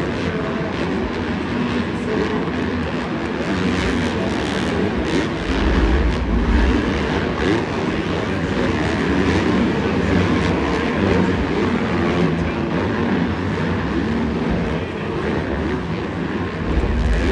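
Dirt bike engines revving, a continuous loud drone whose pitch keeps wavering up and down.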